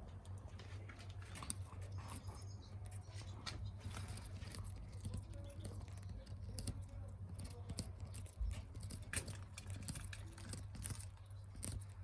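Budgies pecking and nibbling at food: an irregular run of small crunching clicks.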